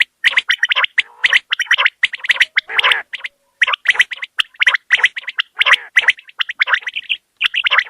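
Common quail (batair) calling: rapid runs of short, clipped notes, several a second, broken by brief pauses, including one slightly longer pause about three seconds in.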